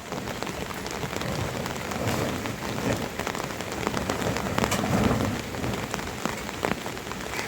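Steady rain falling, with many separate drops pattering and dripping close by.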